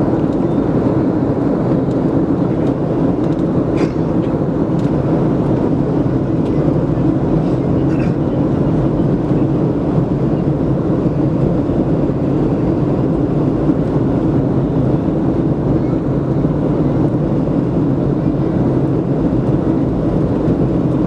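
Steady cabin noise of a Boeing 737-700 in motion, its CFM56-7B engines and airflow heard from inside the cabin as an even low rumble that holds steady, with no sudden change.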